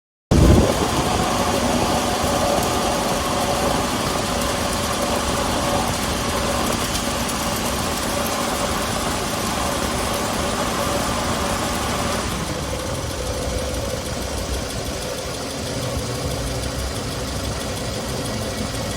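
Car engine idling, heard close up as a steady hiss with a mid-pitched whine, starting suddenly. About twelve seconds in, the higher hiss drops away and a lower hum remains.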